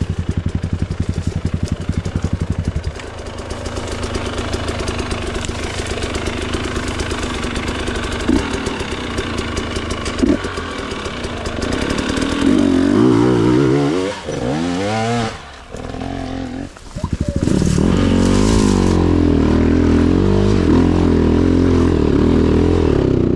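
KTM 300 two-stroke single-cylinder enduro motorcycle running hard off-road, its engine note rising and falling with the throttle. It dips sharply for a moment about sixteen seconds in, then pulls steadily again.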